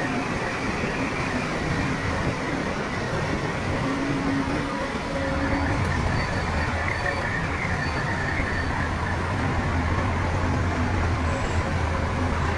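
Heavy diesel earthmoving machinery running steadily, with a dense mechanical clatter. A deeper engine hum comes in and holds from about five seconds in.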